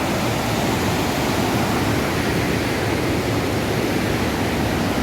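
River water rushing over rocks in rapids and falls, a steady, even rush of water.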